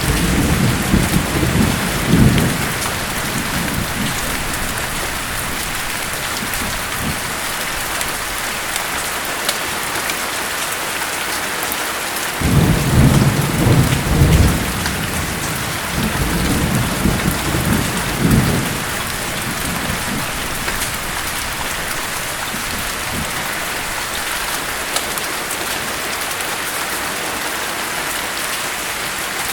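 Steady heavy rain hissing, with low rolling thunder rumbling at the start and again in a longer roll from about twelve to eighteen seconds in.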